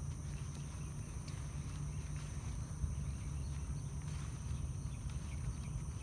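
Outdoor ambience: a steady low rumble under a constant high-pitched drone of insects, with a few faint chirps.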